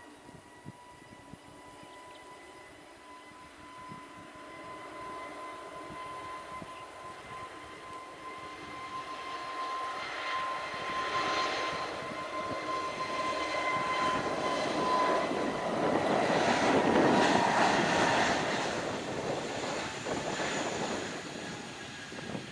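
Airliner engines passing close: a steady whine under a rush of engine noise that swells to its loudest about three-quarters of the way through, then fades away.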